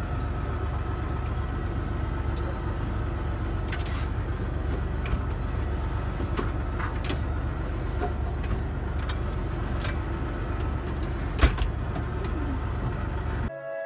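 Steady low engine and road rumble inside a moving bus, with scattered rattling clicks and a sharper knock about eleven seconds in. It cuts off suddenly just before the end.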